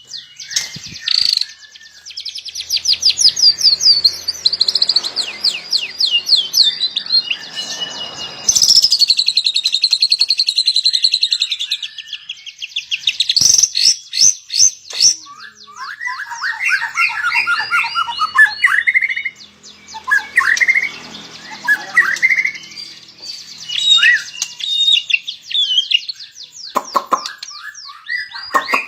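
White-rumped shama singing a long, varied song: long runs of fast repeated trill notes in the first half, then lower, choppier whistled phrases.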